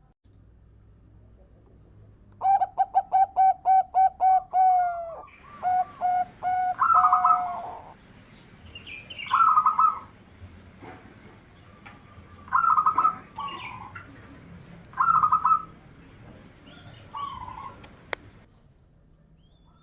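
Zebra dove (perkutut) cooing: a quick run of about ten short notes, then separate short cooing phrases every two to three seconds. A single sharp click near the end.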